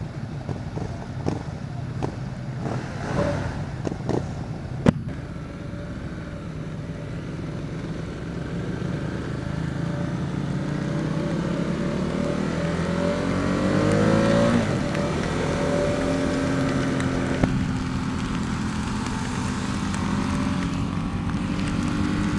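Ducati XDiavel's 1262 cc Testastretta DVT V-twin on the move in heavy rain, over a haze of wind and wet-road noise. The engine note rises steadily under acceleration, drops at a gear change about halfway through, then runs steady. A few sharp taps come in the first five seconds, the loudest about five seconds in.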